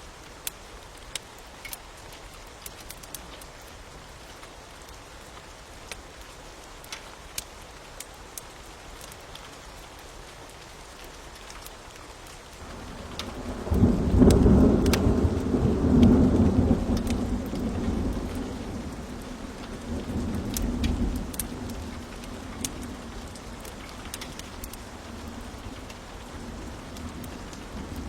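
Steady rain with the scattered sharp pops of a crackling fire; about twelve seconds in, a long roll of thunder builds, peaks and rumbles away over roughly ten seconds.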